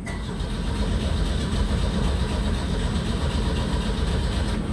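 1984 Pontiac Fiero's four-cylinder engine being cranked by the starter, turning over steadily without catching. The owner wonders whether something was left unplugged.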